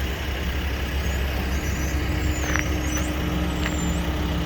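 Reach forklift's engine running steadily at an even low rumble, with a faint steady tone over it.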